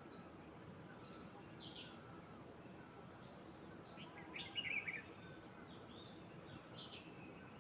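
Birds singing: short high chirping phrases of quick falling notes recur every second or two, with one louder, lower chirping call about halfway through, over a steady background hiss.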